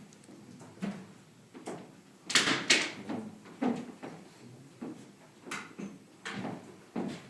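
A series of irregular knocks and bumps, with the two sharpest coming close together about two and a half seconds in.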